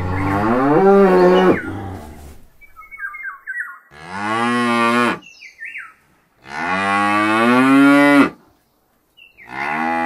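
Cows mooing: a long low moo that ends about a second and a half in, then two more about four and six and a half seconds in, the last the longest, and a fourth beginning near the end. Short high chirps sound between the moos.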